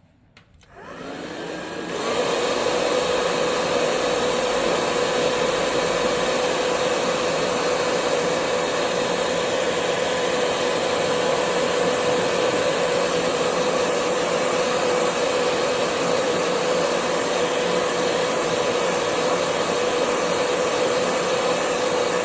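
Hair dryer switched on and running steadily with a constant mid-pitched whine over the rush of air, blowing wet ink and colour on the painting dry. It builds up over the first two seconds, then holds level.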